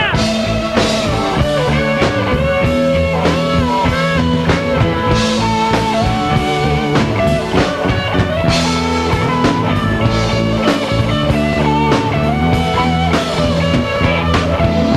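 Rock song instrumental passage with no singing: a wavering electric guitar lead over bass and a steady drum-kit beat.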